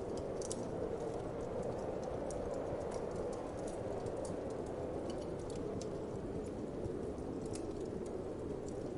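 Wood fire crackling in a fireplace, with sharp irregular pops a few times a second, over a steady, low rush of wind.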